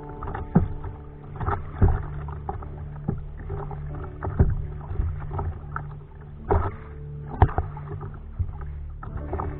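Kayak paddle strokes dipping and splashing in sea water, roughly one stroke a second.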